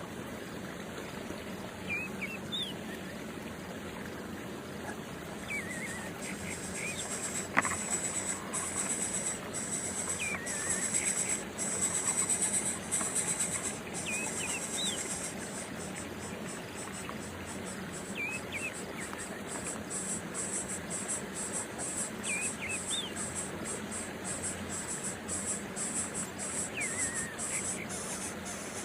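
Short bird chirps every couple of seconds over a steady outdoor background, with a high-pitched drone that turns into rapid, even pulsing about halfway through, and one sharp click near the start.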